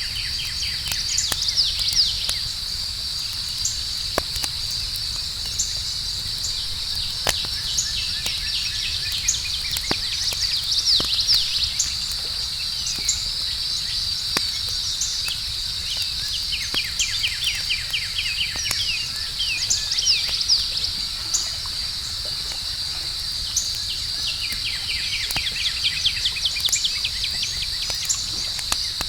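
Campfire crackling with scattered sharp pops over a low rumble, under a steady high-pitched chorus of crickets. Every several seconds a burst of rapid chirping trills rises over the chorus.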